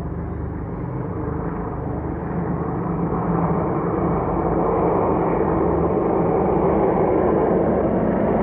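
Aircraft engine noise from a plane flying over, growing louder over the first few seconds and then holding steady.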